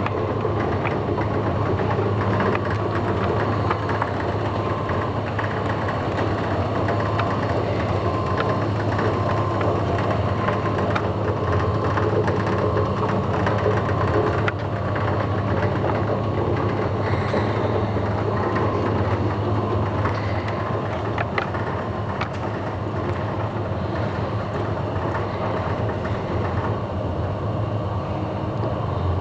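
Steady machine hum, a strong low drone with a fainter whine above it, with scattered light clicks and a slight change in the hum near the end.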